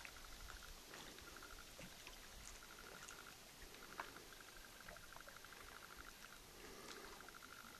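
Faint light rain pattering, a soft even hiss with scattered drop ticks. Through it a faint rapid pulsing chirr repeats in runs of about a second.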